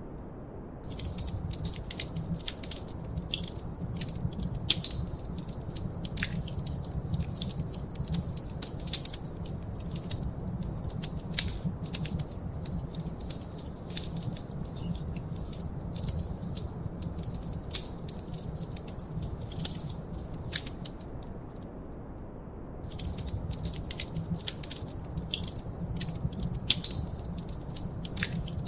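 Wood fire crackling: dense, irregular snaps and pops over a steady low rumble. The crackles drop out for about a second near the start and again about three-quarters of the way through, leaving only the low rumble.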